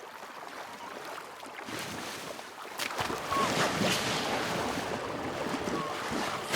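Choppy sea water lapping and splashing, with wind on the microphone. It grows louder about halfway through.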